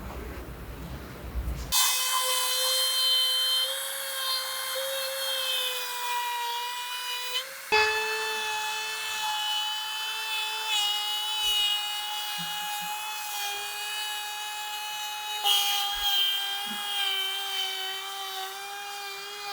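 A high-speed power tool motor running with a steady high-pitched whine, starting about two seconds in and dropping slightly in pitch twice, about eight and fifteen seconds in.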